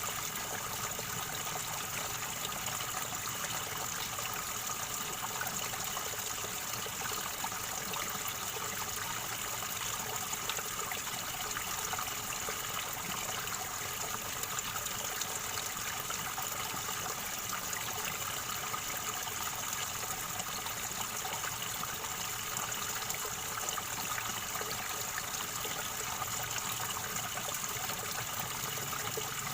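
River water gurgling in a steady, even rush with no let-up.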